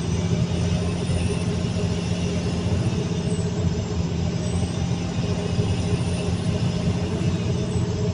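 CAT 320D2 L excavator's diesel engine running steadily, with a constant low drone and no change in speed.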